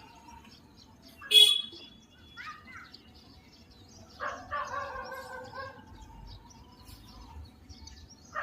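Indian peafowl calling: one short, loud call about a second and a half in, and a longer call about four seconds in. Small birds chirp throughout.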